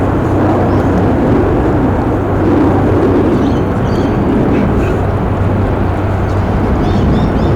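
Jet airliner's engines running, a loud steady rumble and roar, with birds chirping faintly.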